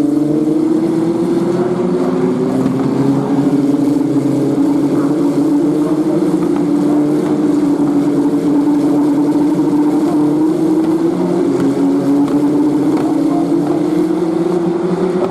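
Racing cars' turbocharged four-cylinder engines running at speed: W Series Tatuus F3 T-318 single-seaters with Alfa Romeo engines. A steady engine note that slowly drops in pitch and climbs again near the end.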